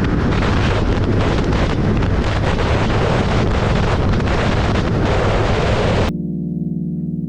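Steady rush of wind noise on the microphone, as from air streaming past a moving car. It cuts off suddenly about six seconds in, replaced by electric piano music.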